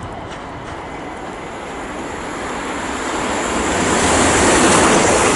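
Class 350 Desiro electric multiple unit coming along the platform, the rumble of its wheels and running gear growing louder over a couple of seconds and then holding loud, with a faint high whine above it.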